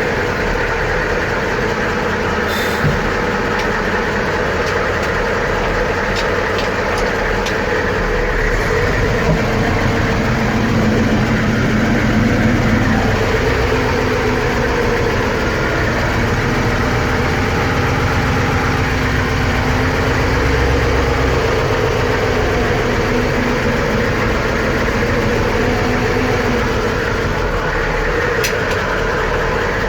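Magirus Deutz A6500 army truck's Deutz F8L614 air-cooled V8 diesel idling steadily after a cold start, with a slight swell in the engine note about a third of the way in.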